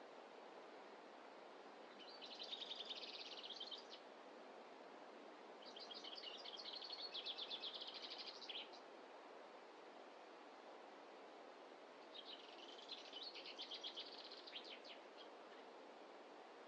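A small songbird sings three times, each song a rapid string of high notes lasting two to three seconds, over a faint steady rush of forest ambience.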